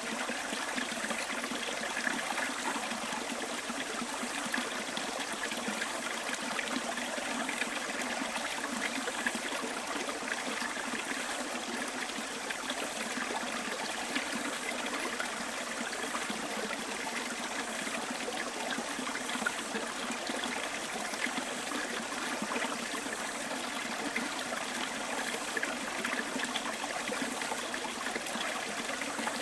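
A stream of running water, a steady, even trickle and rush.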